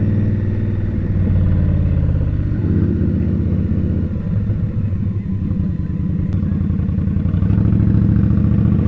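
Indian Scout motorcycle's V-twin engine running while riding in traffic. The engine note changes about two and a half seconds in and grows louder near the end.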